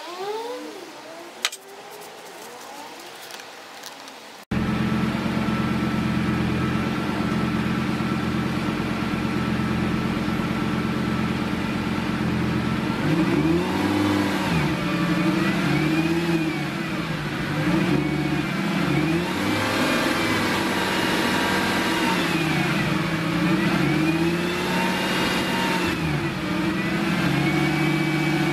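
For the first few seconds, faint handling noise with one sharp click. Then the Lamborghini Gallardo's V10 idles steadily. About halfway through it is blipped several times, the pitch rising and falling with each rev, and it settles back to a steady idle near the end, run up after an oil and filter change.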